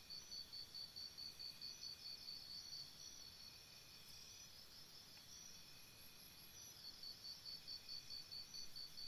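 Faint high cricket chirping in evenly spaced pulses, about seven a second, in two long runs: one at the start, and another starting about seven seconds in.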